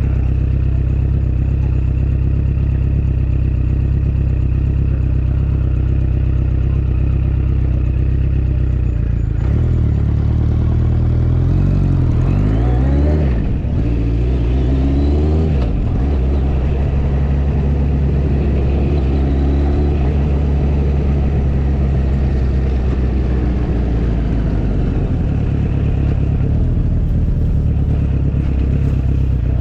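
Motorcycle engine running under way, recorded from the bike itself. Its pitch holds steady, then rises and falls several times between about ten and sixteen seconds in before settling again.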